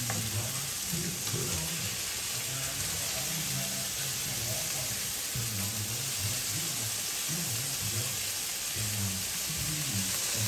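Shrimp and mushrooms sizzling steadily in a frying pan while being stirred with a wooden spatula.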